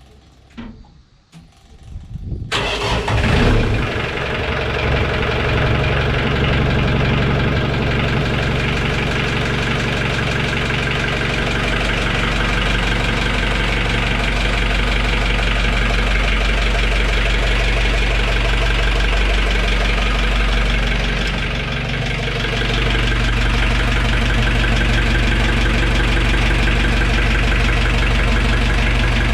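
Fishing boat's marine engine starting after a few faint clicks, catching about two and a half seconds in, then running steadily at idle. The level dips briefly a little past two-thirds of the way through.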